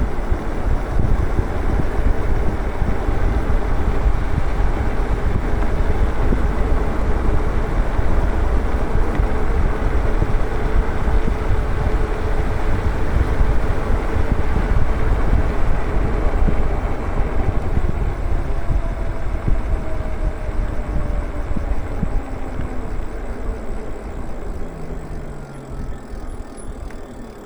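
Wind rushing over the microphone and tyre noise from an e-bike ridden fast on a paved road, with a faint motor whine that slowly shifts in pitch. The noise eases off near the end as the bike slows.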